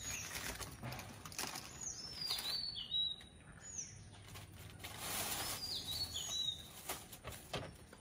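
A small bird calling: high chirps that slide down and then level off, in clusters of three or four, about two seconds in and again about five seconds in.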